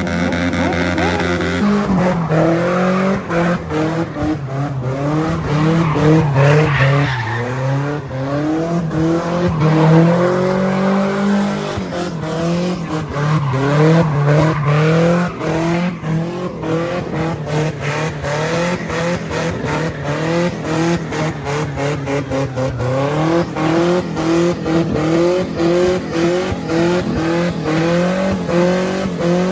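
Car engine revving hard and unevenly, its pitch rising and falling over and over, with tyre squeal, as in burnouts or donuts.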